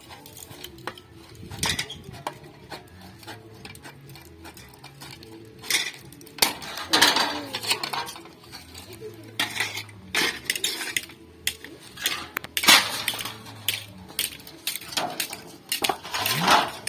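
Salvaged refrigerator sheet metal being cut and handled by hand: irregular metallic clinks, scrapes and knocks.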